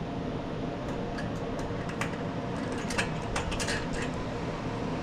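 Light clicks and taps of small engine parts being handled as a carburetor is fitted back onto a small engine, a few sharp ticks about two to four seconds in, over a steady background hum.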